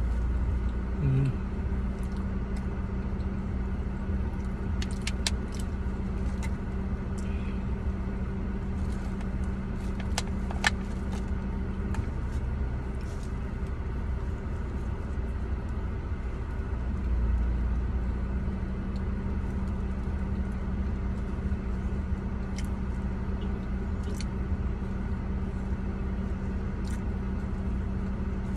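Steady hum of a car idling, heard inside the cabin, with scattered small clicks and rustles from a plastic fork and foil food tray.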